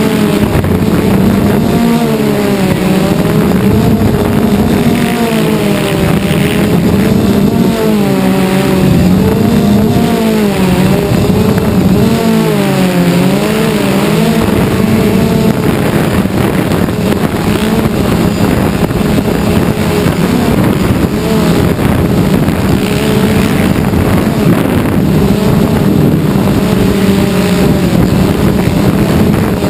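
Multirotor drone's propellers and motors humming steadily, the pitch wavering slightly up and down as the throttle is corrected.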